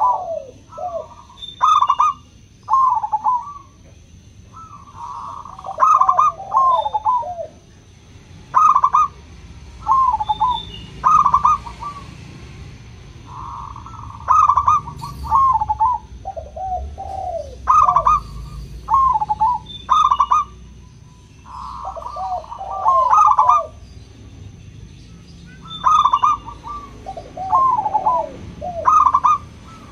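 Zebra doves (local perkutut) cooing: short phrases of quick, rolling coos, one every two to three seconds, in the clear 'crystal' voice prized in local birds. A faint steady high tone runs underneath.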